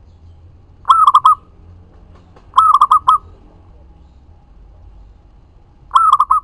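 Zebra dove (perkutut) singing its cooing song: three phrases, each a quick run of four or five short coos, about a second and a half apart and then three seconds apart.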